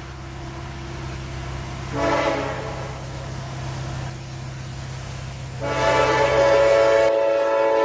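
Locomotive air horn sounding: a short blast about two seconds in, then a long, loud blast starting near the end. A steady low rumble runs underneath until shortly before the end.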